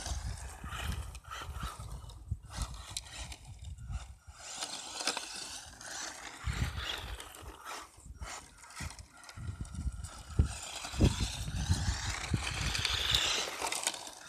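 ECX Torment 4x4 RC truck's electric motor whining, its pitch rising and falling again and again as the throttle is worked, with rumble and knocks from the tyres and chassis over rough ground.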